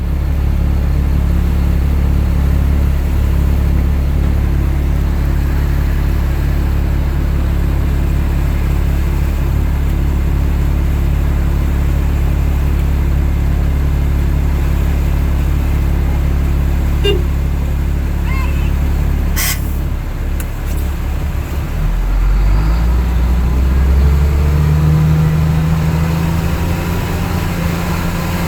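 A motor vehicle's engine running steadily with a low hum. About 22 seconds in its pitch shifts and a tone slowly rises, as if the engine speeds up, and a short sharp click is heard a little before that.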